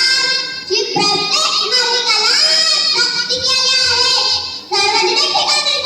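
Children singing a song, the voices gliding and holding notes in a continuous melodic line.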